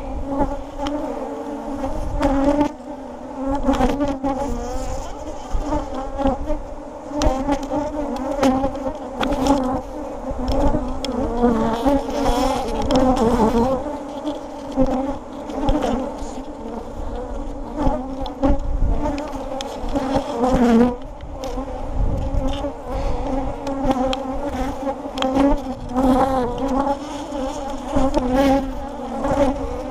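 Honeybees buzzing in numbers around an opened hive, a dense wavering hum throughout, with scattered short knocks and bumps.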